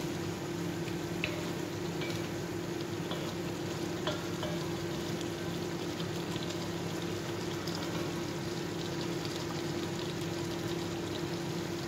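Chicken cubes sizzling and simmering in soy and fish sauce in a wok, with a wooden spatula stirring and now and then lightly scraping the pan. A steady low hum runs underneath.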